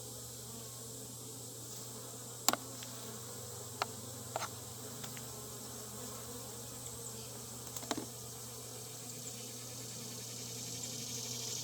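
Honeybees buzzing around an open hive, a steady hum, with a few sharp clicks scattered through it and a hiss that swells near the end.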